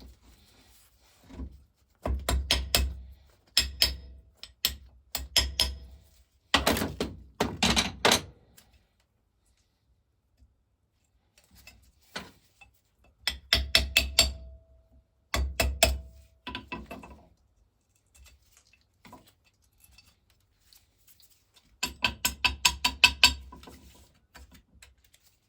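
Bursts of quick light hammer taps on a paper gasket laid over the metal face of a water pump casting, tapping the gasket out against the casting's sharp edges. The taps come in runs of several a second with pauses between, and one run about halfway through rings briefly.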